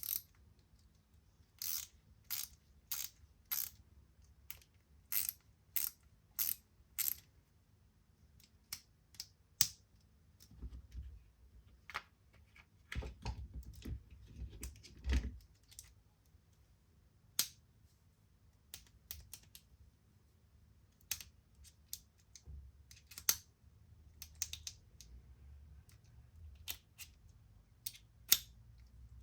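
Sharp clicks and small hard knocks from handling a Wera Tool-Check Plus bit set's plastic case and metal bits. A run of about eight clicks comes in the first seven seconds, then scattered clicks, with a low rumble of handling around the middle.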